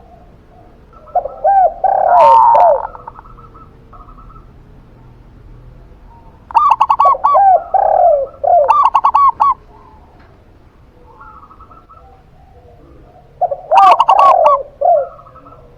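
Zebra dove and spotted dove cooing in three bouts several seconds apart, each a quick run of arching coos with a rapid rolling, clicky trill.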